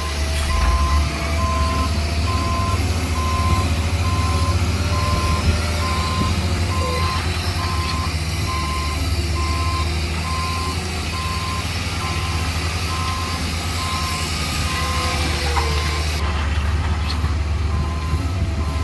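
Reversing alarm on a heavy construction machine, beeping at one pitch in a steady, evenly spaced run over the low hum of its diesel engine: the machine is backing up.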